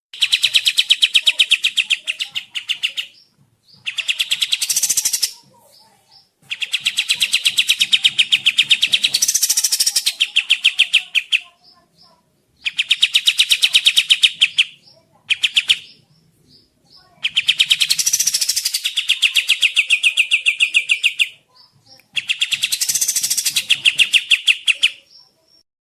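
Song of the bird known in Indonesia as kapas tembak, a training master recording: about seven bursts of fast, rapidly repeated high notes, most lasting two to five seconds and one very brief, with short pauses between them.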